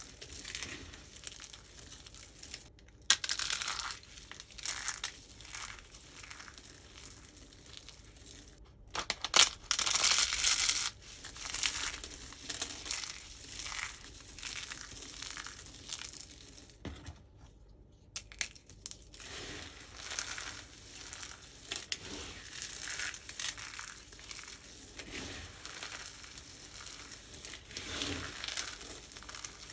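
Starch-coated soap being crunched and crumbled, giving irregular dry crackling crunches. There are louder bursts of crunching a few seconds in and again around a third of the way through, and a short pause past the middle.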